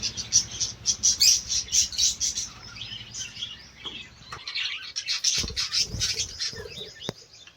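A flock of budgerigars chirping and chattering in rapid, high calls. A steady low hum underlies the first half, and a couple of low thumps come about five and a half to six seconds in.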